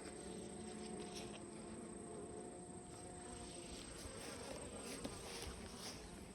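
Honeybees buzzing around an opened hive: a faint, steady hum of many bees, with a few light clicks.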